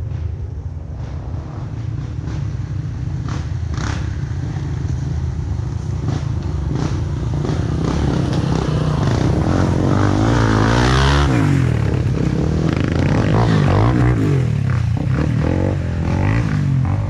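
Off-road dirt bike engines running and revving, their pitch rising and falling repeatedly, growing louder from about eight seconds in.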